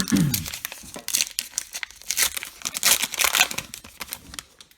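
Baseball card pack wrapper being torn open and crinkled by hand, in irregular crackling bursts.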